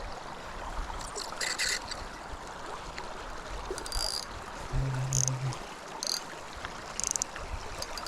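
River water rushing steadily, with several short, sharp high-pitched sounds scattered through it and a brief low hum about five seconds in.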